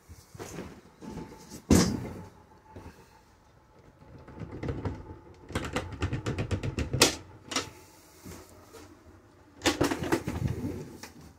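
Camper Murphy bed being unlatched and folded down: a sharp knock about two seconds in, a run of quick clicks and rattles midway, and more clattering near the end as the bed frame and mattress come down.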